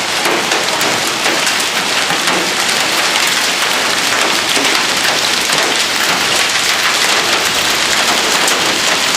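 Heavy downpour of rain mixed with hail: a steady, dense hiss of drops and hailstones striking hard surfaces, with many fine ticks from the impacts.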